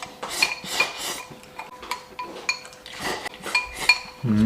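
Tableware clinking at a meal: utensils repeatedly tapping against bowls and plates in light, irregular clinks, some with a short ringing tone. A voice starts near the end.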